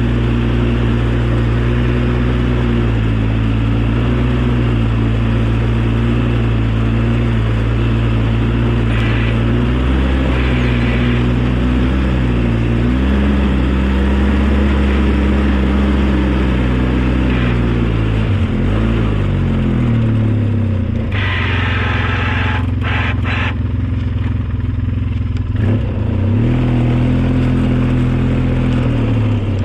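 Engine of the snow-plowing vehicle running steadily, its revs dropping and then picking back up about two-thirds of the way through. A short rush of noise cuts in near the two-thirds mark.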